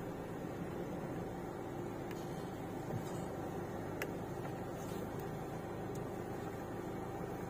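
Car engine idling, heard from inside the cabin as a steady low hum, with a couple of faint ticks around the middle.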